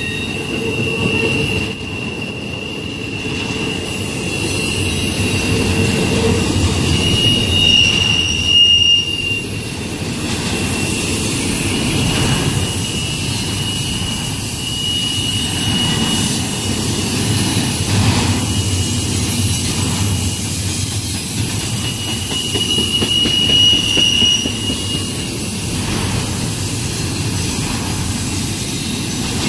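Norfolk Southern double-stack intermodal freight train rolling past: a steady rumble of spine and well cars on the rails, with high wheel squeals coming and going every few seconds.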